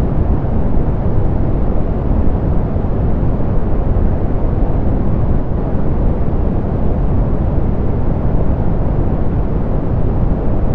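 Steady synthetic pink noise, softened so that it is heaviest in the low end and fades away in the treble, with no changes or events.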